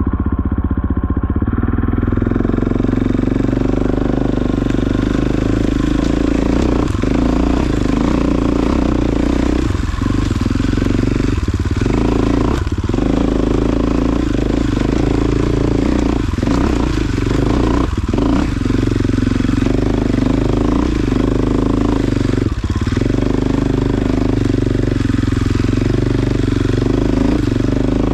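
Off-road vehicle engine running steadily at low speed over rough ground, with short knocks and rattles every few seconds as it crawls over rocks.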